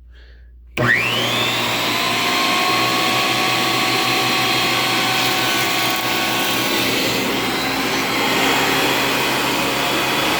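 Shop Fox 13-inch benchtop thickness planer switched on under a second in, its motor and cutterhead spinning up in a rising whine, then running steadily at full speed.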